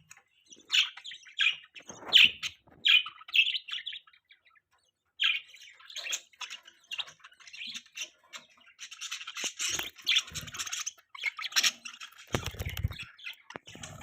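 Budgerigars chirping and squawking: a string of separate sharp chirps, then after a short pause a denser, buzzy warbling chatter. A brief low rumble sounds near the end.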